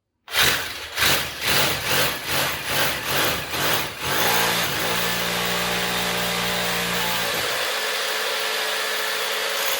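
Power drill boring a fixing hole into a plastered wall, surging in pulses about twice a second at first, then running steadily. Its motor tone stops about three-quarters of the way through while a steady rushing noise carries on.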